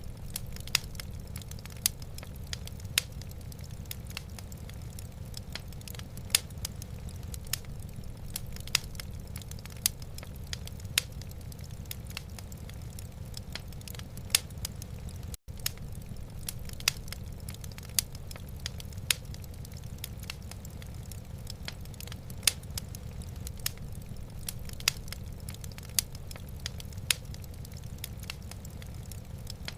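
Wood fire crackling in a fireplace: sharp pops come at irregular intervals, often more than one a second, over a steady low rumble. The sound cuts out for an instant about halfway through.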